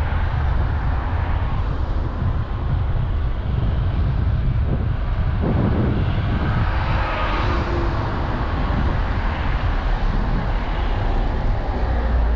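Steady road traffic noise with a low wind rumble on the microphone.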